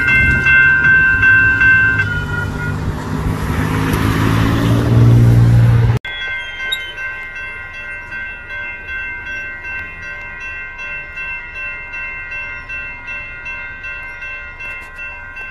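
A passenger train on the tracks, its rumble growing louder over the first six seconds until a sudden cut. Then railroad crossing warning bells ring steadily in a regular repeating pattern.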